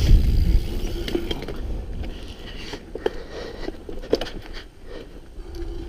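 Mountain bike ride heard from a helmet chin-mounted camera: wind and tyre rumble that die down over the first second or two as the bike slows, then scattered clicks, knocks and rattles from the bike on the trail.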